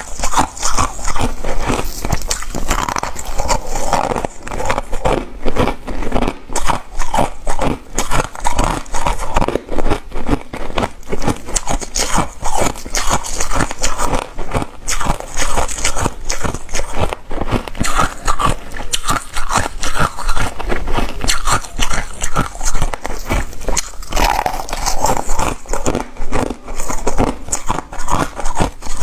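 Ice being bitten and chewed close to the microphone: a dense run of irregular crunches and crackles with no pause.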